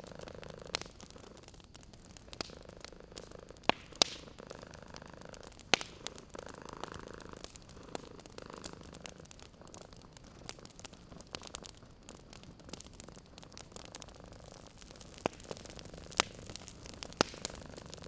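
A cat purring steadily in slow swells, over a wood fire crackling with irregular sharp pops.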